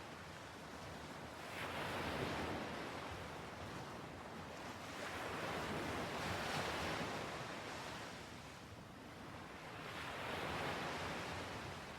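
Ocean waves washing onto a shore, swelling and fading about every four seconds.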